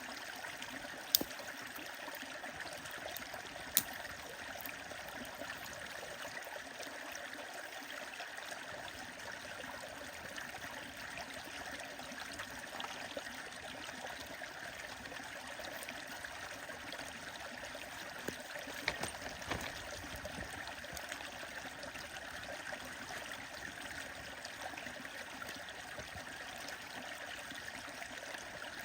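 Stream water running steadily, with a few sharp pops from a crackling wood fire: two loud ones within the first four seconds and a small cluster about two-thirds of the way through.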